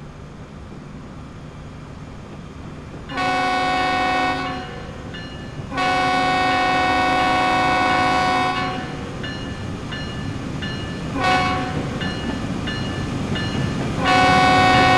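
Union Pacific diesel locomotive's air horn sounding the grade-crossing pattern: two long blasts, a short one, then a long one starting near the end, over the rumble of the train as it approaches.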